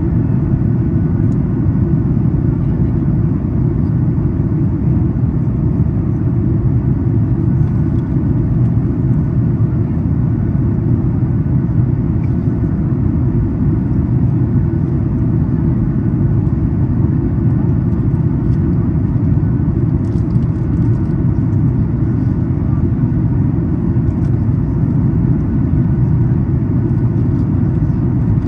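Steady low rumble of a Boeing 737 MAX 8 airliner cabin in flight on its initial approach, engine and airflow noise heard from an economy seat.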